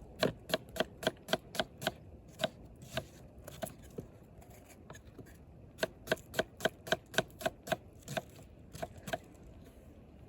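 Knife chopping on a cutting board, in quick runs of sharp knocks about four a second, with a pause and scattered strokes between two runs.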